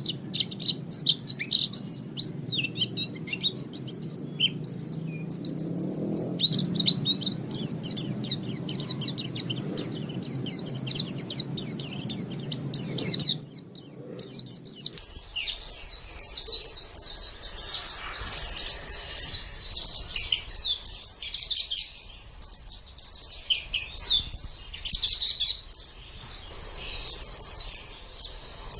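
Pleci (white-eye) singing a continuous, rapid twittering song of high, quick chirps. A low background rumble under the first half stops about halfway through.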